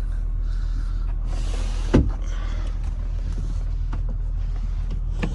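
Honda Accord 3.0-litre V6 idling steadily, with a single sharp click or thump about two seconds in.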